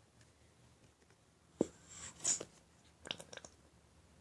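Lotion bottle being handled and squeezed into the slime mixture: a single sharp click, a short squirting hiss, then a few quick small clicks.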